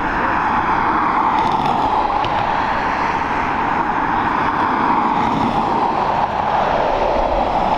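Jet airliner engines running: a steady, loud rushing noise with no breaks, its pitch sagging a little and rising again.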